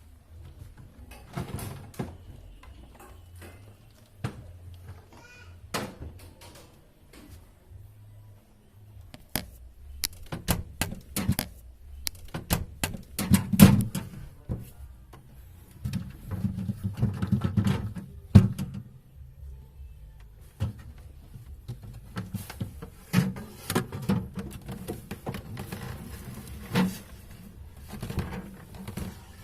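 Irregular clicks, knocks and scraping of plastic parts and a screwdriver as a refrigerator's interior lamp cover and fitting are taken apart, with busier handling in the middle and near the end.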